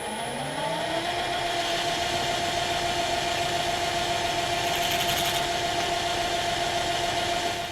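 A small machine tool's electric motor spinning up: its whine rises in pitch and settles within about the first second, then it runs with a steady hum.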